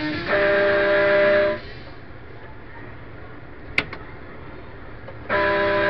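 Falgas Big American Truck kiddie ride's horn sounding through the ride's speaker: two long, steady, chord-like blasts about four seconds apart, with a sharp click between them.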